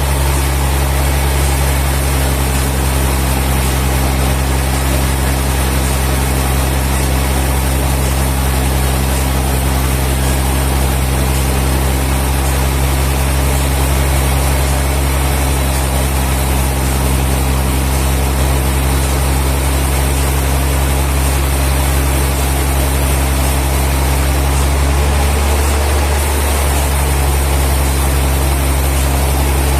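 Sawmill machinery running with a steady low hum; the hum shifts slightly near the end.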